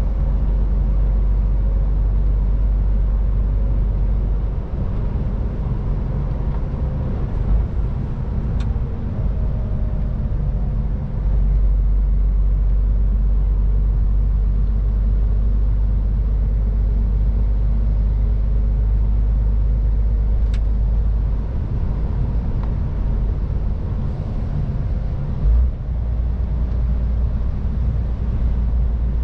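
MAN TGX 18.510 truck on the move: steady low engine and road rumble, with two faint clicks.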